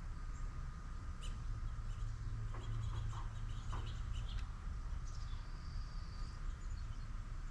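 Outdoor ambience: a steady low rumble with faint, high bird chirps, one held call near the start and another from about five seconds in. A few light clicks and chirps come in the middle.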